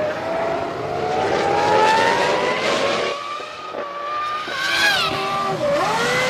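Formula One car's 3.0-litre V10 engine at high revs, its pitch climbing steadily for about four seconds as it accelerates, then dropping in quick steps near the end as it brakes and downshifts.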